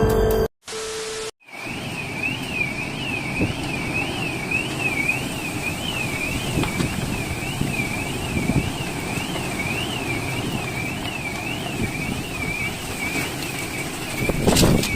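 An electronic siren-like tone warbling up and down about twice a second over steady traffic noise, with a sudden loud burst of noise near the end.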